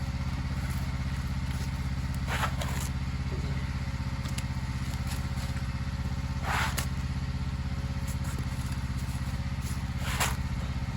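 An engine running steadily at constant speed, with three short scrapes of a shovel scooping slop off block paving about two and a half, six and a half and ten seconds in.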